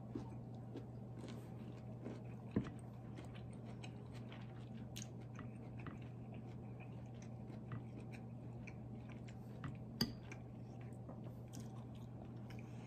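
A person chewing a mouthful of beef and broccoli stir fry, with many small wet mouth clicks and two sharper clicks, one about two and a half seconds in and one near ten seconds, over a steady low hum.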